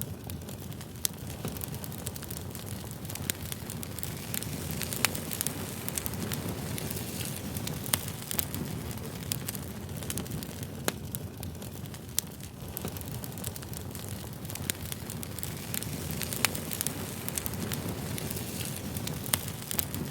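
Campfire burning: a steady low rush with sharp crackles and pops scattered irregularly throughout.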